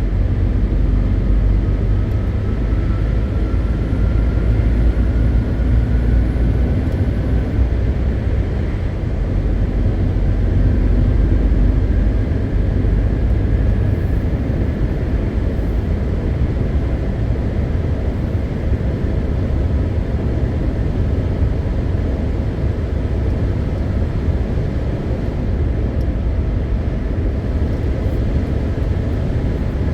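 A MAN TGX 520 truck under way: its 12.4-litre straight-six diesel engine and the road noise make a steady low rumble. A faint whine rises slowly in pitch over the first several seconds, and again around the middle.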